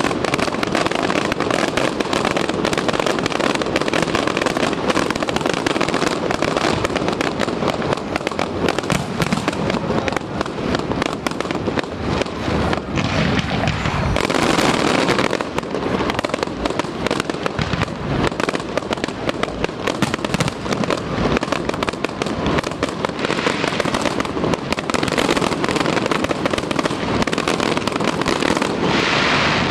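Fireworks display: a dense, unbroken barrage of firework bangs and crackling, many shells going off in quick succession.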